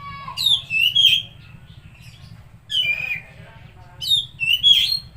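Oriental magpie-robin (kacer) singing in three short bursts of varied, sliding whistles and harsher squawky notes, with brief pauses between them, over a faint low hum.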